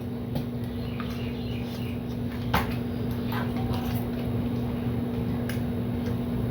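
Eating sounds, chewing with a few soft mouth smacks and clicks, over a steady low hum.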